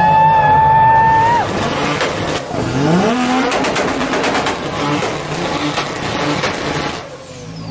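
Mazda RX-7 FD drifting. The tires squeal in a steady high tone for the first second and a half. About three seconds in, the engine revs climb sharply, and it keeps running hard and choppy.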